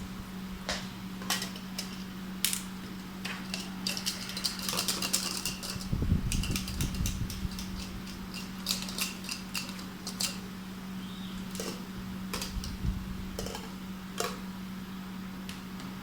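Scattered light clicks and clinks of plates and cutlery as people eat, with a couple of dull bumps, over a steady low hum.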